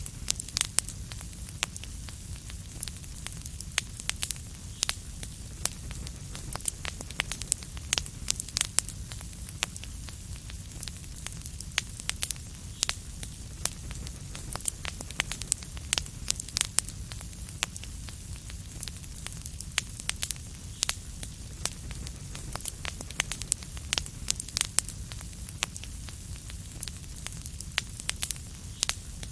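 Wood fire crackling in a fireplace: dense, irregular sharp pops and snaps over a steady low rumble and hiss of the flames.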